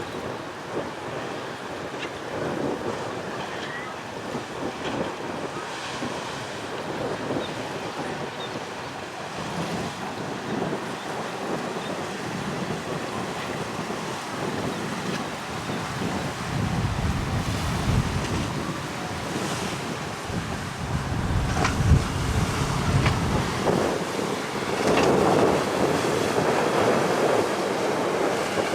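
Strong wind buffeting the microphone over the rush of waves and choppy water, the gusts heavier and louder in the second half.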